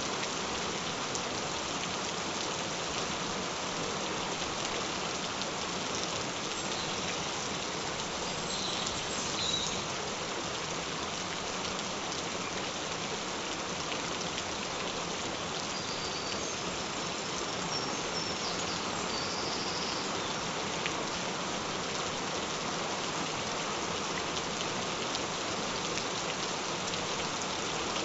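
Steady, gentle rain falling: an even, unbroken hiss of many drops.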